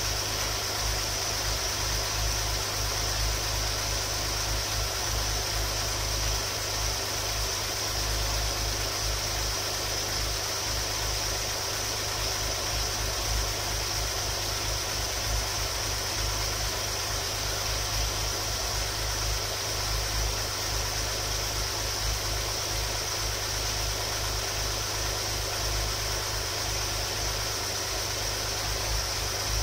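Freshly rebuilt Alfa Romeo Busso 3.0 V6 idling steadily, with a steady high hiss over the engine note.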